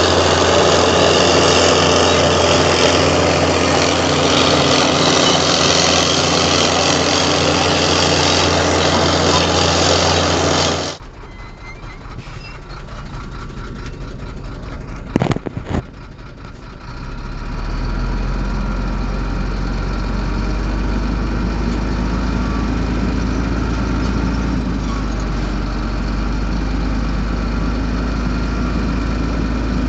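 Heavy diesel engine of earthmoving machinery running steadily. About a third of the way in it cuts off abruptly to a quieter stretch with a couple of sharp knocks. After a few seconds a steady engine sound with a deep low hum returns.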